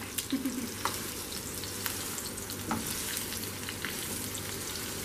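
A fresh tuna steak searing in a frying pan of hot olive oil, garlic and pickled ginger: a steady sizzle with scattered crackles and pops.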